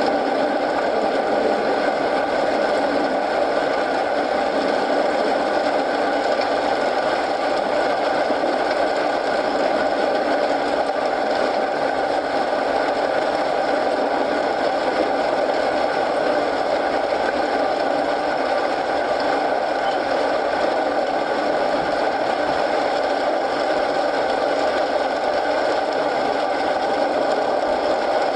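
Steady rain mixed with a crackling wood fire, an even, unchanging wash of noise.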